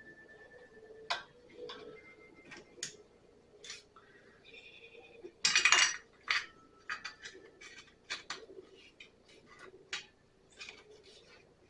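Hand tools and small metal parts clinking and tapping irregularly during hands-on repair work, with one louder rattling scrape about halfway through.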